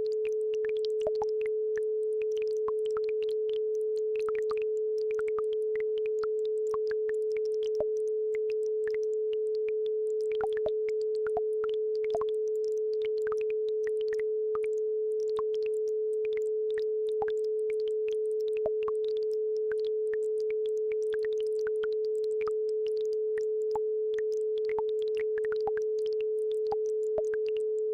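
A steady pure tone at 432 Hz holds unbroken throughout. Faint babbling-brook water sounds, scattered little trickles and drips, lie beneath it.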